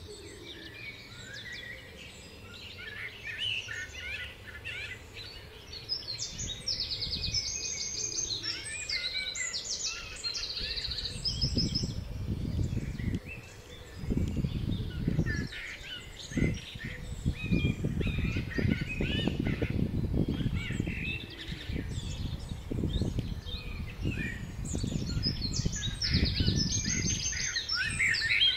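Wild songbirds singing and chirping, with repeated fast high trills. From about eleven seconds in, an irregular low rumble joins them and becomes the loudest sound.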